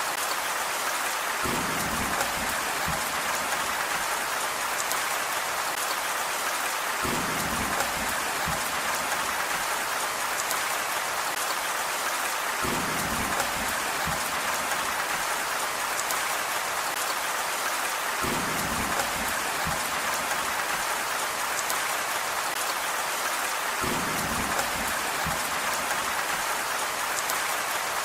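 Steady rain falling on a surface, an even hiss of drops. A low rumble swells up under it for a second or two about every five and a half seconds.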